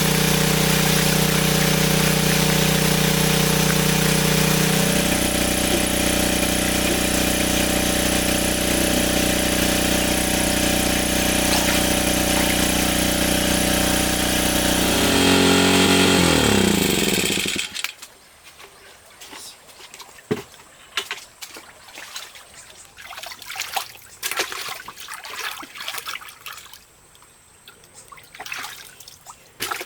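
A small engine running steadily, its note dropping a little about five seconds in. Just past halfway it winds down and stops, leaving only faint scattered knocks.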